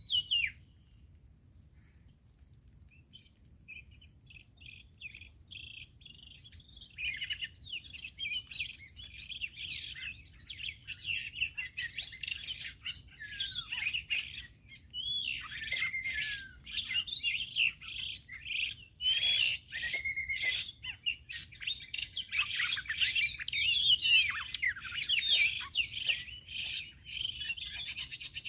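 Birds chirping and twittering in rapid, overlapping calls that start a few seconds in and grow busier, over a faint steady high-pitched whine.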